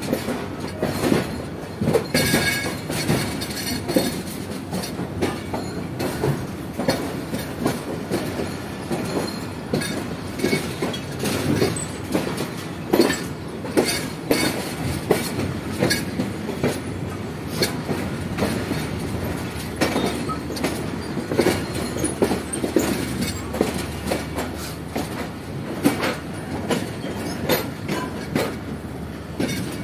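Moving passenger train heard from on board: a steady rumble and rattle of the coach, with irregular clanks and knocks of the wheels over the rails, and a brief high wheel squeal about two seconds in.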